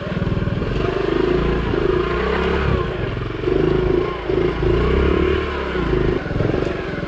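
Honda CT70's small single-cylinder four-stroke engine running under a rider over rough ground, its revs rising and falling repeatedly.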